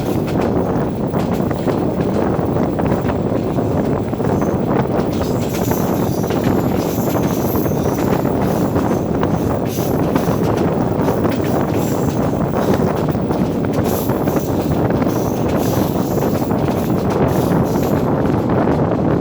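A passenger train running at speed, its steady rolling noise mixed with wind rushing over the microphone.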